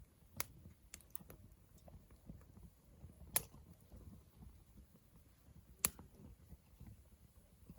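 Wood campfire crackling: scattered sharp pops over a soft low rumble, a few close together near the start, then single louder pops every two to three seconds.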